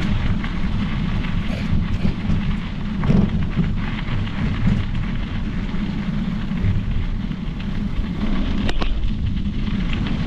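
Riding noise from a Specialized Epic Pro mountain bike on the trail: a steady low rumble of wind on the microphone and tyres rolling, with a few sharp knocks and rattles from bumps.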